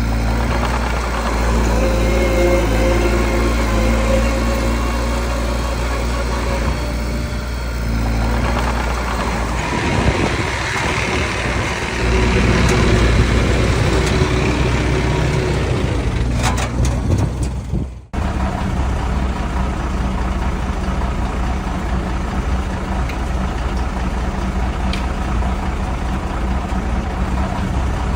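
Diesel engine of a small bulldozer running under varying load while working. It cuts off abruptly about two-thirds of the way through, and a steadier engine sound carries on after.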